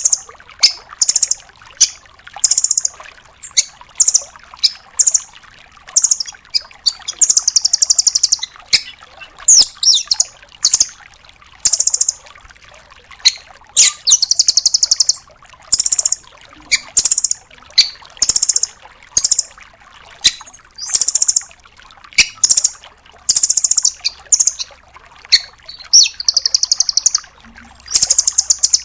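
Velvet-fronted nuthatch calling: short bursts of rapid, very high trilled notes, repeated about once a second, with sharp clicking notes in between.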